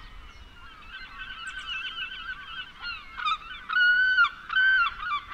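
Birds calling: a fast chattering of short, harsh calls that builds up, then two louder, longer drawn-out calls near the end.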